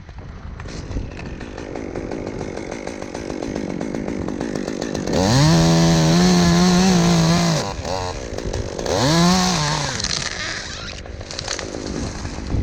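Two-stroke chainsaw running, revved to full throttle about five seconds in and held there for about two and a half seconds. It drops back, then gets a shorter rev a second later.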